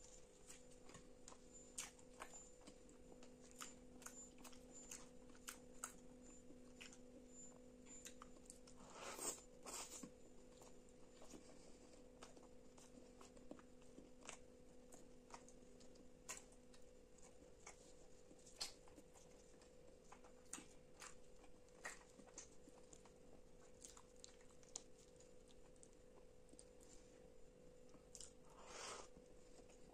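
Close-miked eating: a roti torn by hand, then chewed with curry, with many soft wet mouth clicks and smacks. Louder bites come about nine seconds in and again near the end. A faint steady hum runs underneath.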